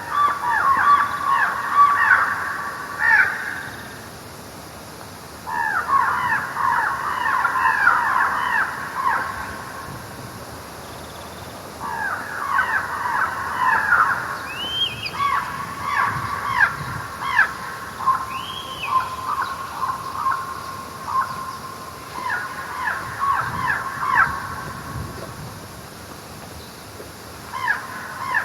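Birds calling in harsh, chattering bursts of rapid notes, each burst lasting a few seconds with short pauses between, and a couple of higher arched calls midway.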